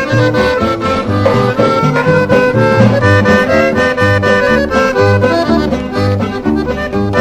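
Norteño-style instrumental intro: an accordion playing the melody over a steady, evenly pulsing bass accompaniment.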